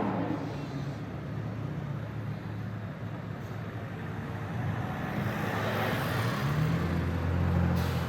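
BMW M4 F82's twin-turbo inline-six with a Fi valved exhaust running at low revs, a steady low rumble that grows louder about six and a half seconds in.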